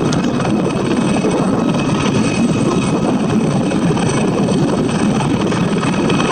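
Aérospatiale Gazelle helicopter flying low and close, its rotor and turbine making a steady, loud, dense rumble with a thin high whine over it.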